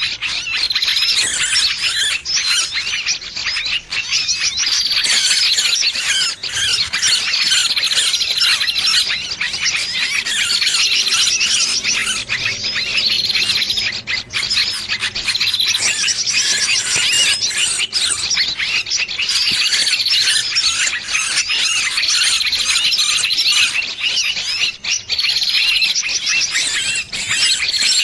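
Bird-lure recording of small birds giving continuous, overlapping high-pitched squealing distress calls: the 'trapped bird' sound that draws other birds in to mob.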